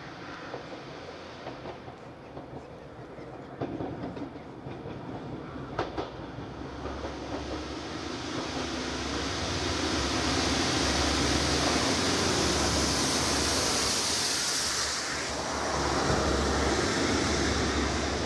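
Network Rail multi-purpose vehicle (MPV) on rail head treatment duty running through a station, its diesel engine and wheels on the rails growing louder from about seven seconds in and then staying loud as it passes, with a pulsing low rumble and a hiss.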